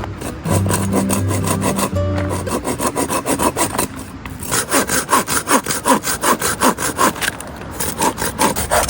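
Hand saw cutting through firewood with quick back-and-forth scraping strokes, several a second, pausing briefly about four seconds in and then resuming. The strokes sound laboured.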